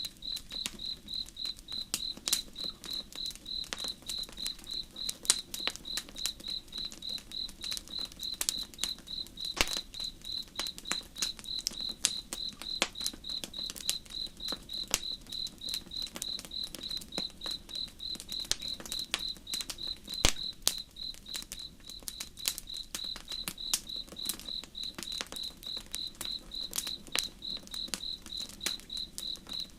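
Campfire crackling with scattered sharp pops, over a steady high-pitched chirping of crickets at about three chirps a second.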